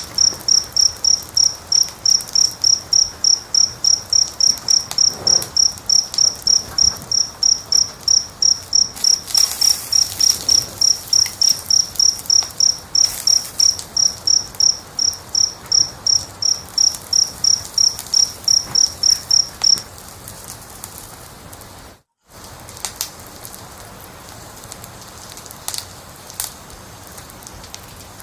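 A cricket chirping in a steady, even rhythm of about two to three high chirps a second, which stops about two-thirds of the way through. A wood fire crackles throughout with scattered pops. The sound cuts out for a fraction of a second shortly after the chirping ends.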